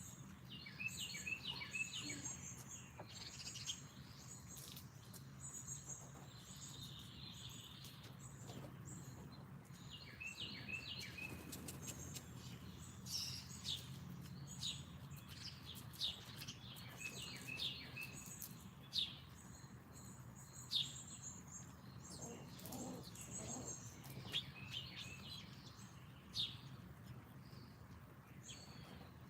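Wild songbirds chirping and calling, a scatter of short high chirps and quick falling notes repeated through the stretch, over a faint steady low hum.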